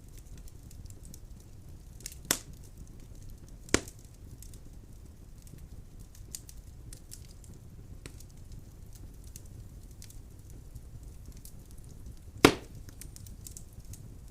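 Firewood burning in a fireplace: a low steady rumble of flames with frequent small crackles and three loud sharp pops, about two seconds in, just under four seconds in, and the loudest near the end.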